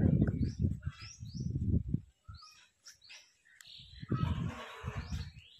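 A bird repeating short, high chirps that fall in pitch, about one every half second to a second. Under them, loud low rumbling on the microphone fills the first two seconds and returns about four seconds in.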